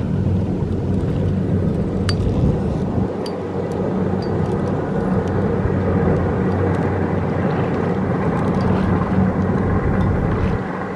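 Kubota DC-70 Plus rice combine harvester running steadily under load, its diesel engine humming together with the noise of its machinery. A few faint light clicks come through.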